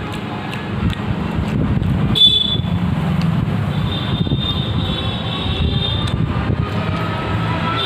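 Steady low rumble of a passing vehicle, with a few sharp clicks and a high steady tone coming in about four seconds in.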